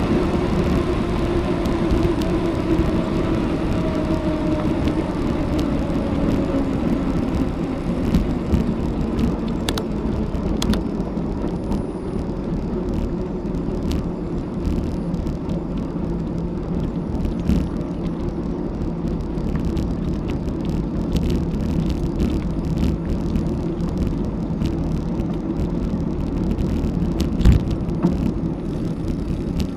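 Riding a bicycle on a country road: steady wind rumble on an action camera's microphone and tyre noise, with scattered clicks and rattles. A hum slowly falls in pitch over the first several seconds.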